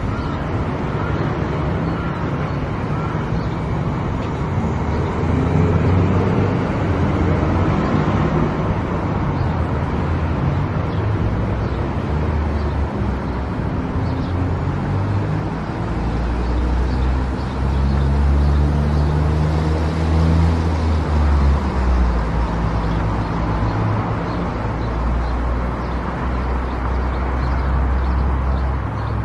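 A car driving on the road: a steady rush of tyre and road noise over a low engine hum whose pitch shifts as the car speeds up and slows, growing louder about halfway through.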